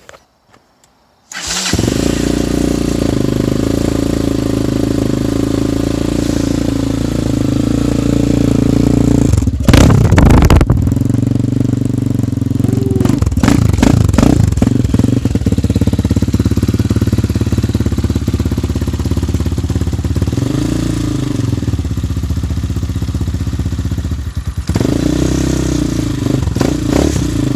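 Hawk 250 dual-sport motorcycle with a newly fitted performance exhaust pipe starting about a second in and running, blipped up in revs several times, loudest about ten seconds in.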